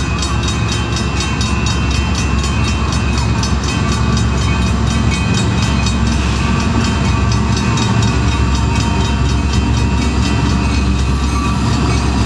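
Diesel freight locomotives running close by in a rail yard: a steady, loud low engine drone with a fast, even pulsing beat of about four a second.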